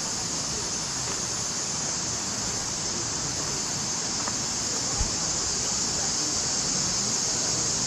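Steady rushing of a mountain creek, with a constant high hiss over it; a single soft low thump about five seconds in.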